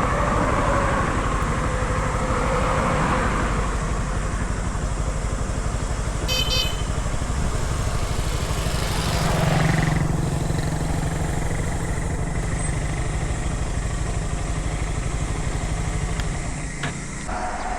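Wuyang-Honda 190's single-cylinder engine running steadily while riding, under a rush of wind on the microphone. A brief high-pitched beep sounds about six seconds in.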